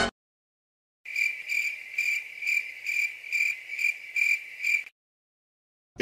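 Cricket chirping sound effect: a single high chirp repeated evenly about two to three times a second, starting about a second in and stopping about a second before the end.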